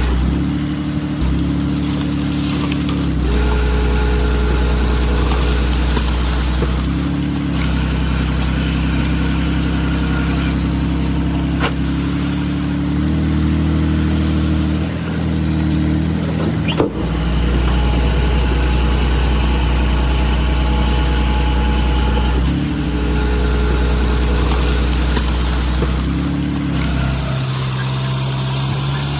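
Heavy-equipment diesel engine running, its engine speed stepping up and down every few seconds as the machine works. A single sharp knock sounds about two-thirds of the way through.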